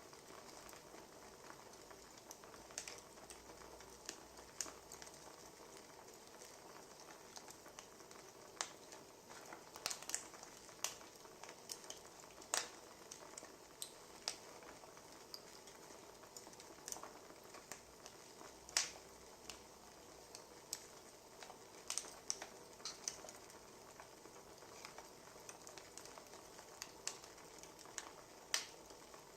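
Wood fire crackling: a faint steady hiss with irregular sharp pops and snaps.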